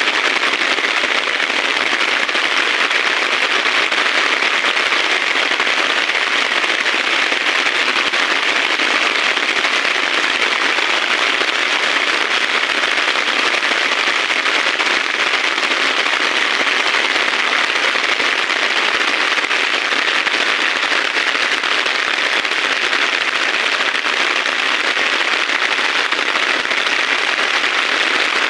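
Heavy rain falling steadily, a dense, even crackling patter with no letup.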